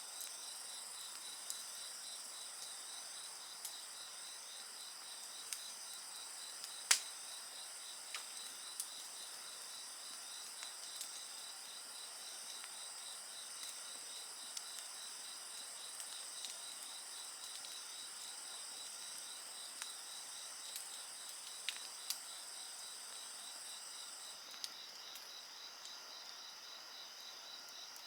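Insects such as crickets trilling steadily in several high-pitched layers, one with a fast pulse; the highest trill stops near the end. Sharp crackles and pops of a wood fire come scattered through it, one louder pop about seven seconds in.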